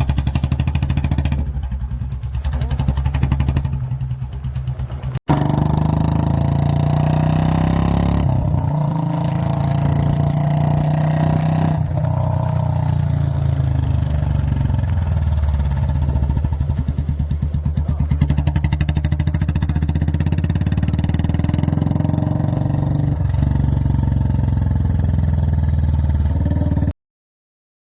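Royal Enfield Bullet 350 single-cylinder engine running through an aftermarket exhaust, its pitch shifting now and then as the throttle is worked. There is an abrupt break about five seconds in, and the sound cuts off sharply near the end.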